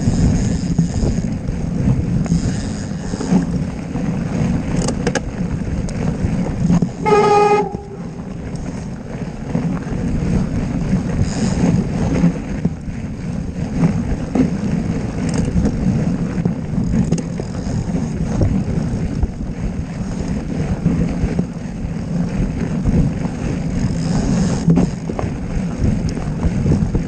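Wind buffeting the microphone in a steady low rumble, with a single short horn toot about seven seconds in.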